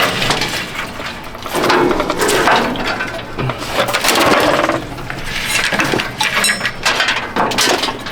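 Old wiring being pulled and torn out of a truck's engine bay: irregular rustling, crackling and sharp clicks and snaps of wire and plastic.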